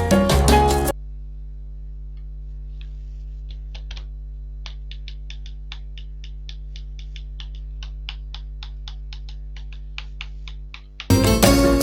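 Steady electrical hum with a run of light clicks, about four a second, in a pause between stretches of background music that cuts off about a second in and returns near the end.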